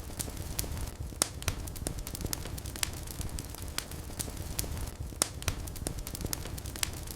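Wood fire burning in a fireplace: a steady low rumble of flames with irregular sharp crackles and pops, a couple of louder pops about a second in and near the five-second mark.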